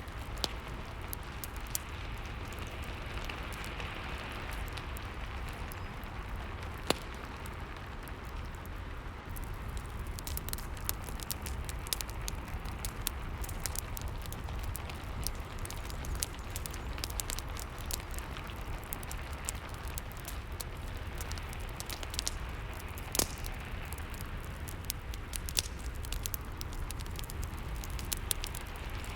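Rain and a crackling wood fire: a steady hiss of rain under frequent sharp pops and crackles, which grow denser about a third of the way in, with two louder single pops.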